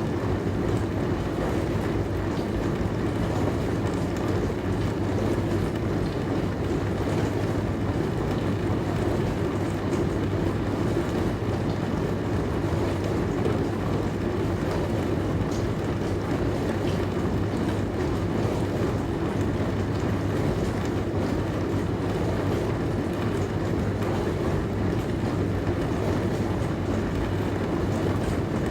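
Dishwasher running: a steady hum from its wash pump under a constant rush of water inside the tub, unchanging throughout.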